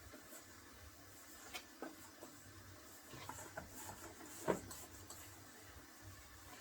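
Flour dough for dumplings being kneaded by hand in a pan: faint scratchy patting with scattered soft knocks, the loudest about four and a half seconds in.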